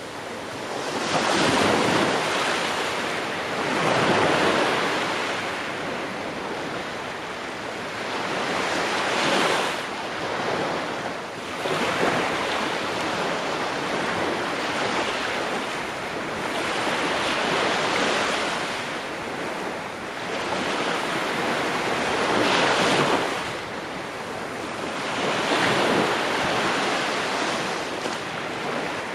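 Ocean waves breaking on a shore, each wave swelling up and washing back every few seconds over a steady rush of surf.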